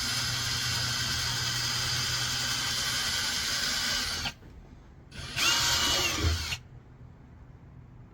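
Power drill running as it bores mounting holes. A steady run of about four seconds stops, then a second short burst of about a second spins up and winds down.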